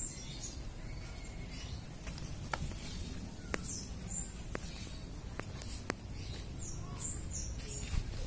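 Small birds chirping: short, high, falling chirps in small clusters of two or three, over a steady low background rumble, with a few sharp clicks between them.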